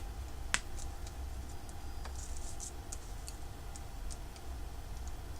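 Small clicks and ticks from hands working the wires and contacts of a freshly soldered sound-chip circuit as it is powered up again, one sharp click about half a second in and lighter ticks scattered after it, over a faint steady low hum.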